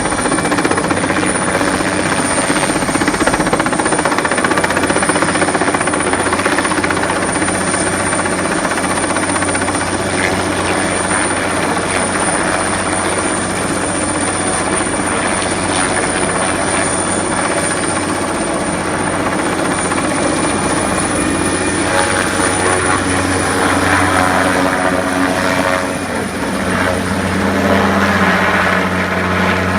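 Helicopter's rotor and engine running loud and steady, with a short dip in level about 26 seconds in.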